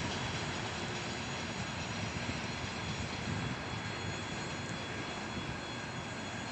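Freight train wagons rolling away on the rails: a steady, wide rumble that slowly fades.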